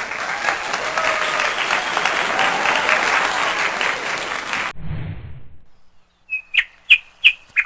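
Crowd applause, a dense patter of clapping that cuts off abruptly about five seconds in. A brief low rumble follows, then a bird gives a quick series of sharp, high chirps near the end.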